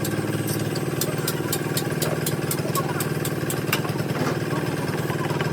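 An engine idling steadily in a workshop, with a run of about a dozen sharp taps, about four a second, from about a second in until nearly four seconds in.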